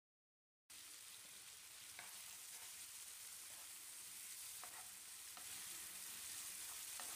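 Faint sizzling of onion and capsicum frying on a low flame in a nonstick pan, starting a moment in, with a wooden spatula stirring and a few light scrapes against the pan.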